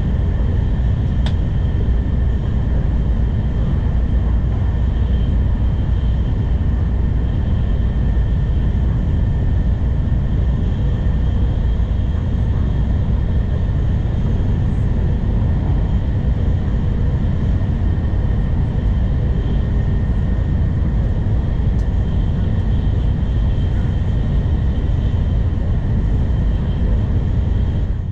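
N700 Series Shinkansen running at speed, heard from inside the carriage: a steady, loud low rumble with a faint steady whine above it.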